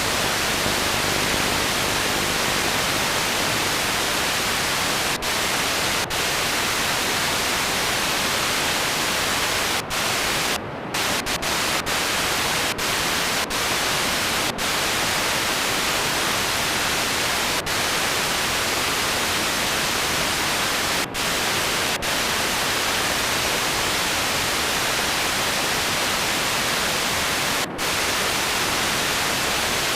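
Loud, steady static hiss spread evenly across all pitches, broken by a dozen or so split-second dropouts, several of them clustered around ten to fourteen seconds in.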